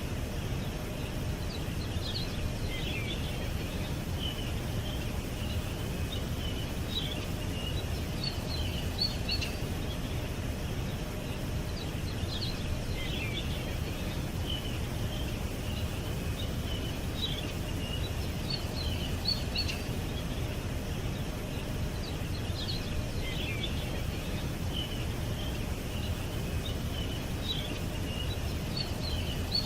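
Small birds chirping and twittering in short scattered bursts over a steady low background rumble.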